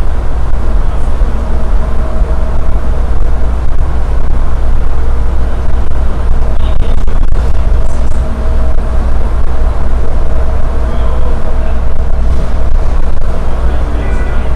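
Automated airport people-mover train car running between stations: a loud, steady low rumble with faint steady tones on top, from the car's onboard equipment, which the rider calls a very noisy processor.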